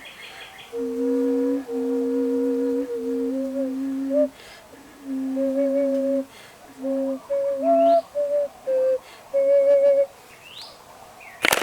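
A new, unfired double vessel flute played slowly and unsteadily by a player who has not practised on it. Early on it sounds two held notes at once, a low drone under a higher note; then it plays single notes in a short, halting melody that stops about ten seconds in. Faint bird chirps come in between, and a burst of clicking handling noise follows near the end.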